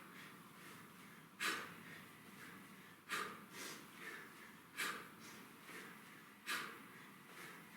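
A man breathing out hard in short, sharp bursts, one with each kettlebell swing, evenly about every 1.7 seconds, with quieter breaths in between.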